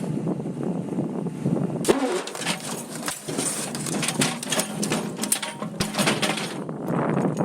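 Strong gusting wind buffeting the microphone with a low, uneven rumble, and a run of sharp crackles and clicks through the middle of the stretch.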